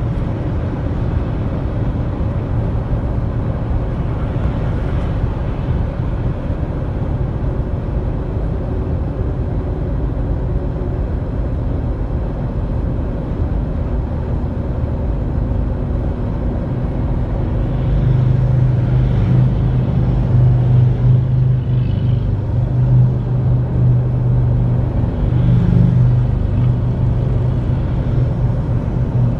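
Motorcycle engine running steadily on the move, with wind rumble on the microphone. The engine note becomes louder and clearer a little over halfway through.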